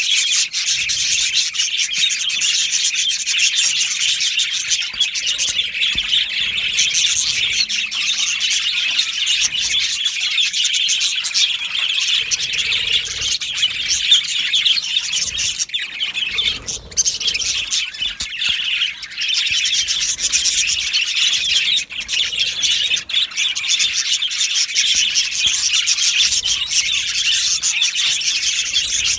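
A flock of budgerigars chirping and chattering all at once in an aviary, a dense, unbroken high-pitched warble of many overlapping calls with occasional squawks.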